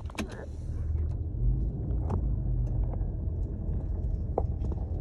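Low, steady rumble of a car driving slowly, heard from inside the car, with a few faint clicks.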